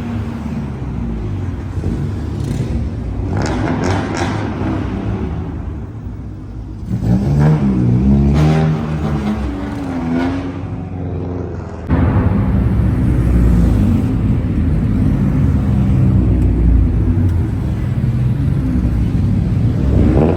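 Straight-piped Honda Civic B-series engines running at idle and being revved, with a rev rising and falling about seven to ten seconds in. The sound jumps abruptly louder about twelve seconds in.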